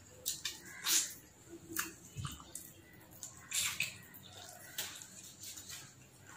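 Close-miked mouth sounds of a man eating pulao rice and chilli chicken by hand: wet chewing with short, crisp lip smacks and clicks every half second to a second.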